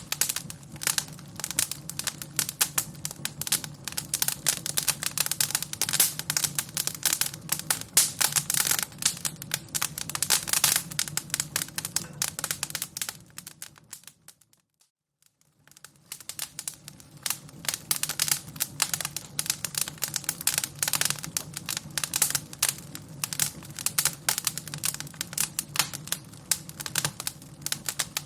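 Fire crackling, with dense, irregular pops and snaps over a low steady rumble. About halfway through it fades out to near silence and fades back in a second or two later.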